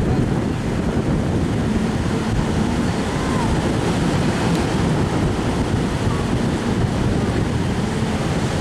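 Wind buffeting the microphone over steady beach surf, with a faint steady hum underneath.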